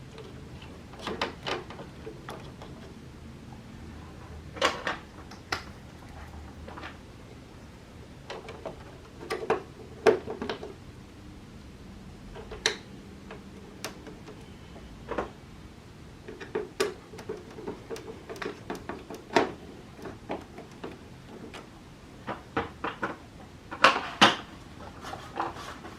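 Irregular plastic clicks and knocks as parts of a split-type air conditioner's indoor unit are handled and clipped back into place. The loudest clatters come about ten seconds in and again near the end.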